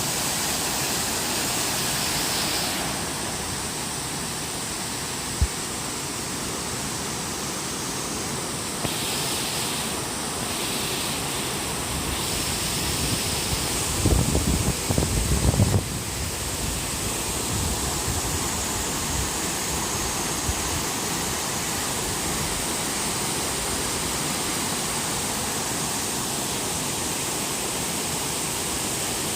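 The Narutaki waterfall: a steady rush of falling water. About halfway through there is a brief cluster of low thuds.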